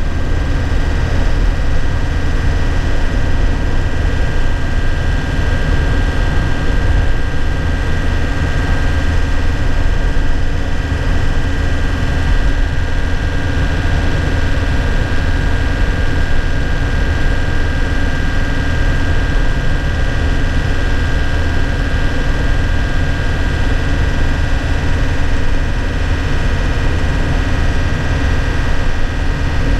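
2001 Nissan Cabstar light truck's engine running steadily while driving, heard from inside the cab, a deep drone with a steady high whine over it.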